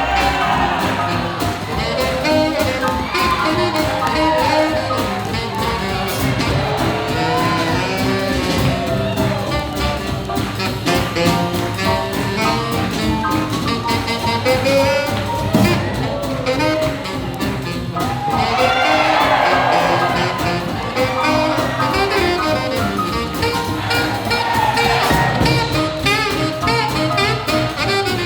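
Live swing jazz band playing a dance number, with horn lines over a steady rhythm-section beat.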